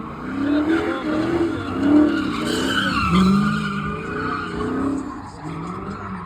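A car sliding with its tires squealing while its engine revs up and down, about once a second.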